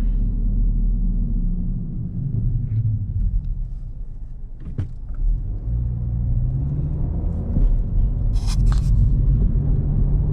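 2025 Honda Civic's engine and road noise heard from inside the cabin while driving, a low drone whose pitch sinks and then climbs again as the car slows and speeds up. A single click about five seconds in.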